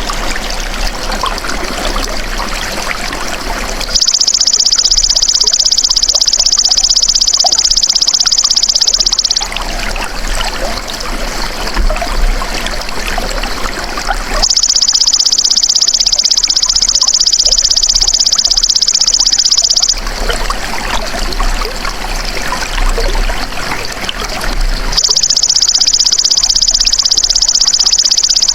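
Belalang emas insect calling in a shrill, high buzz that lasts about five seconds at a time, three times, over a steady trickle of flowing water.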